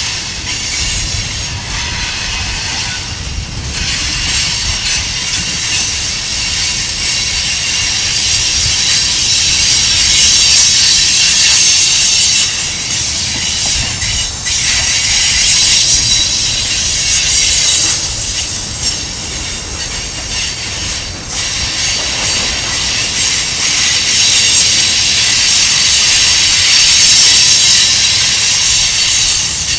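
Freight train's tank cars rolling past on a curve, the wheel flanges squealing in a shrill, wavering whine over a steady low rumble and rail-joint clacks. The squeal swells louder twice.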